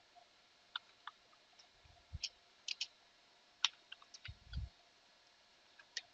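Sparse, irregular clicking of a computer keyboard and mouse, about a dozen separate taps, with a couple of soft low thumps.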